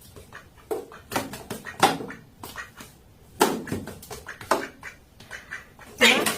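A duck quacking in short, loud, irregular bursts, about six of them.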